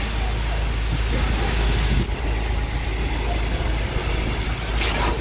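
A boom truck's engine runs steadily with a deep, continuous rumble while a concrete floor is being poured. A short hiss comes near the end.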